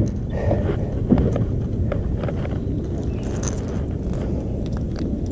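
Steady low rumble of wind buffeting the microphone, with scattered light clicks and knocks.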